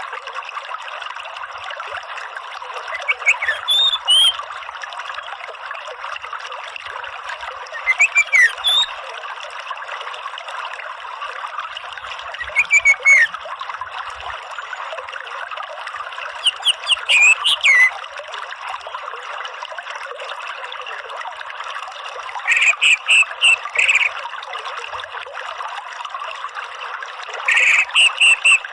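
Orange-headed thrush giving short, stuttering call phrases about every five seconds, six in all, over a steady rush of running water.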